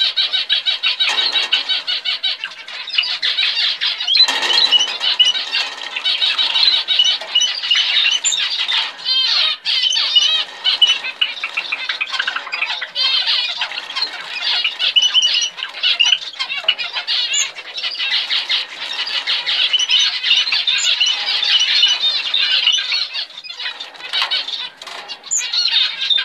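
Small cage birds chirping and calling continuously, a dense overlapping chatter of high calls.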